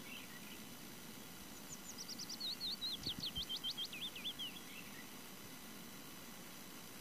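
A songbird singing one phrase of quick, repeated whistled notes, about five a second, that drifts down in pitch as it goes, over a steady outdoor hiss.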